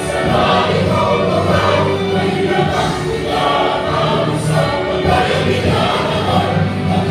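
Christian worship music with a choir singing over a steady instrumental backing.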